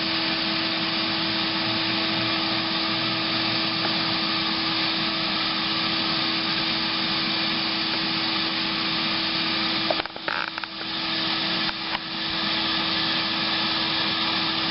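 Electric vacuum running steadily with a constant hum, as used to suck honey bees out of a wall cavity. Its sound dips briefly twice about two-thirds of the way through, then returns to the same steady level.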